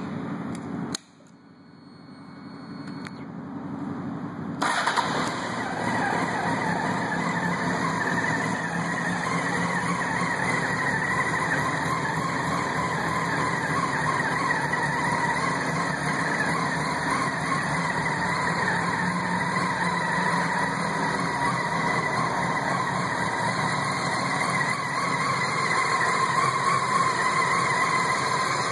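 Honda 919 motorcycle's inline-four engine running steadily, starting loud and sudden about five seconds in after a quiet stretch.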